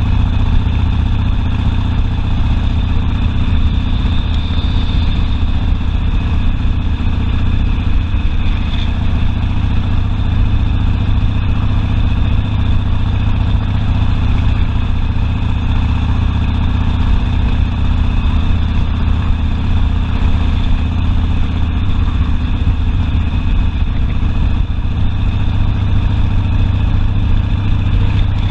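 Harley-Davidson Sportster V-twin engine running steadily.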